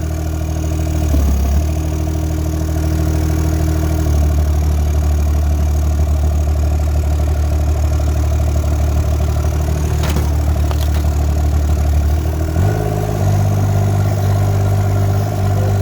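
Mini excavator engine running steadily as the machine is driven along. About three-quarters of the way through, its note steps up to a higher, louder pitch.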